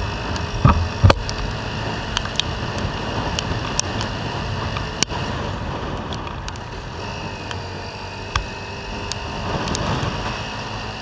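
A Honda CBR250R motorcycle on the move: its engine running steadily under heavy riding noise. There are scattered sharp ticks and two loud thumps about a second in.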